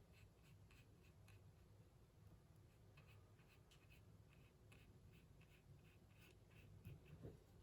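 Faint short strokes of a paintbrush on watercolour paper.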